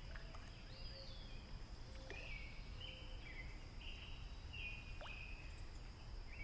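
Faint birdsong in short, repeated high phrases over quiet outdoor background noise.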